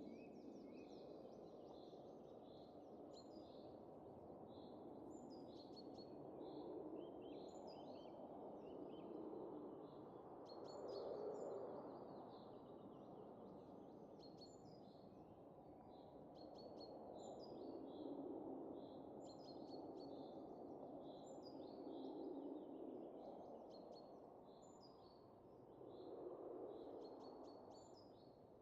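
Faint, soft wind that rises and falls in gentle gusts every few seconds, with small birds chirping and twittering throughout.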